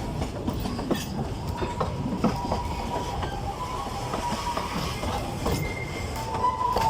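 Narrow-gauge forest railway train with its Mk48 diesel locomotive running, wheels clicking over the rail joints. A high steady tone comes in faintly about two seconds in and grows loud near the end.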